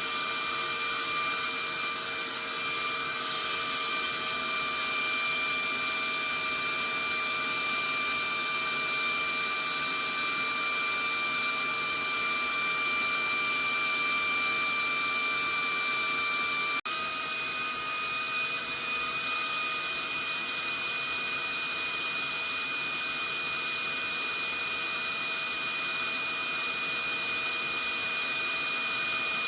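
Vacuum cleaner running steadily: a continuous rushing motor noise with a high whine. About two-thirds of the way through it breaks for an instant and resumes a little louder and slightly higher in pitch.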